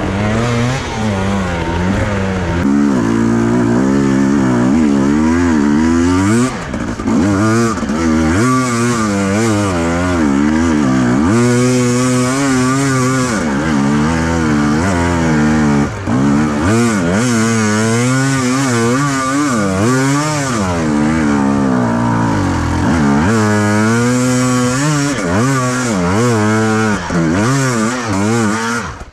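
Enduro motorcycle engine being ridden hard, its pitch rising and falling every second or two as the throttle is opened and closed. It drops away sharply at the very end.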